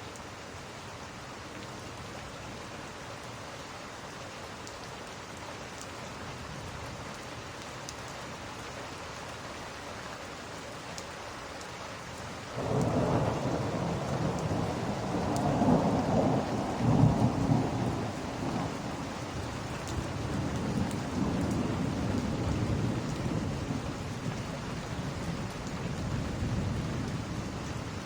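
Steady rain. About twelve seconds in, thunder breaks suddenly and rumbles on, loudest a few seconds later, then slowly dies away under the rain.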